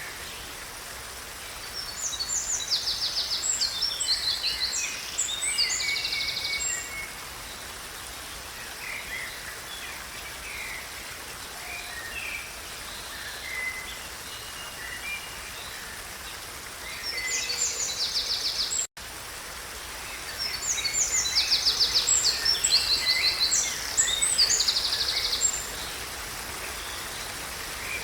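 A songbird singing long, complex phrases of fast high trills and chirps, two long bursts of about five seconds each with a shorter one between and softer calls in the gaps, over a steady background hiss of running water or rain. The sound drops out for an instant about two-thirds of the way through.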